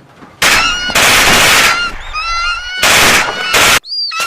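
Several loud blasts of noise, the first lasting over a second, with birds screeching through and between them.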